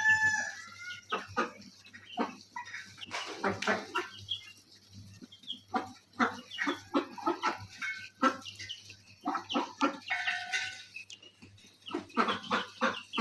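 Chickens clucking while feeding, with many short taps and clicks throughout and a few brief calls near the start and about ten seconds in.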